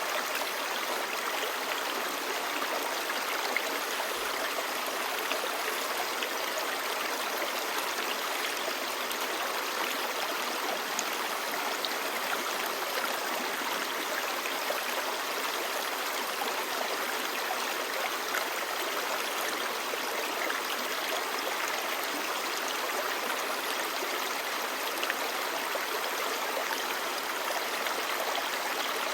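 Clear river babbling steadily, an even rush of flowing water.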